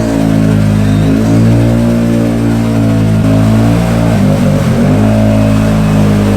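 Can-Am Outlander ATV's V-twin engine held at high revs, pulling under load through deep mud; the revs sag and waver about four seconds in, then pick back up.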